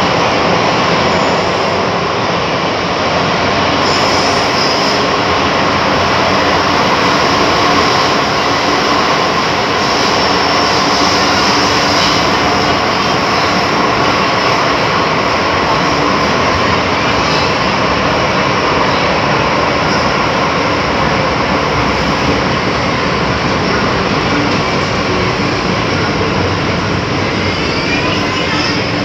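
MTR Metro-Cammell electric metro train running at speed, with a steady loud rumble of wheels on rail and a faint steady whine riding over it.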